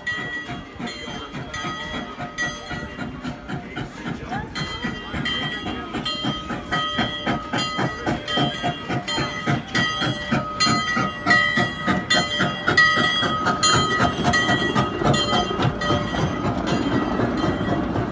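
Train pulling into a station, with rapid repeated clicks of wheels over the rails and steady ringing tones, growing louder toward the end.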